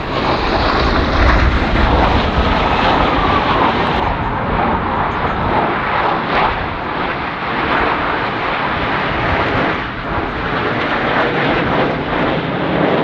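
Blue Angels F/A-18 Super Hornet jets flying overhead, a loud, steady jet engine noise with no break.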